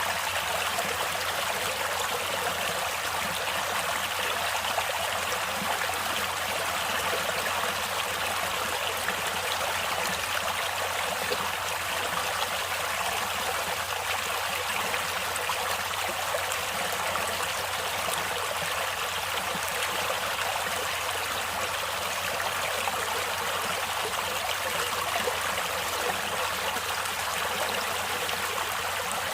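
Stream water flowing steadily, an even splashing hiss with little deep rumble.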